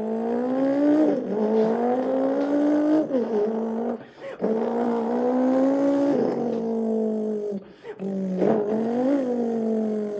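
A man's mouth imitation of a McLaren Senna's engine: a hummed, buzzing engine note that climbs slowly in pitch like revs through a gear and drops back at each shift. It comes in three long runs with short breaks for breath, and a quick rev blip up and down near the end.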